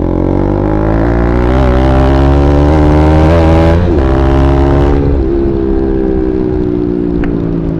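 Bajaj Pulsar NS200's single-cylinder engine through an aftermarket Akrapovic exhaust, pulling away with the revs rising for about four seconds. Then a short break, and the revs fall steadily as the bike slows.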